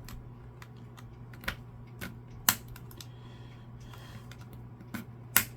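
Irregular sharp clicks and taps of a small metal tool on an Xbox One controller's security screws, an attempt to knock out the screws' centre pins. About eight taps, the loudest about two and a half seconds in and near the end, over a steady low hum.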